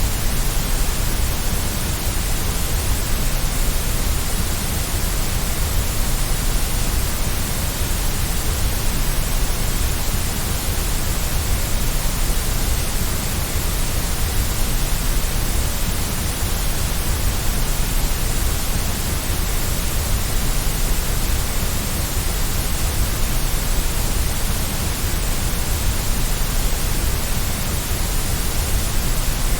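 White noise for baby sleep: a steady, unchanging hiss across all pitches, with no drops, ticks or tones in it.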